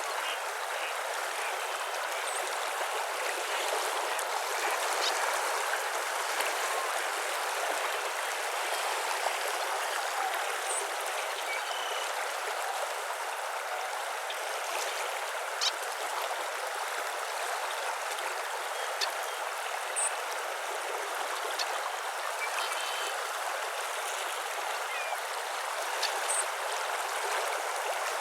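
Steady rushing of flowing water, like a stream, with faint short high chirps of birds now and then.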